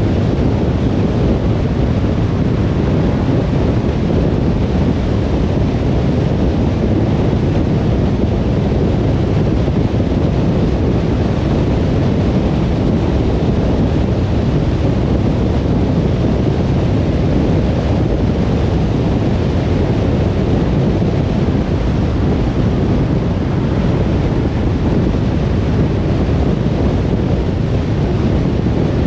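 Steady road and wind noise of a car driving, a continuous low rumble with no changes.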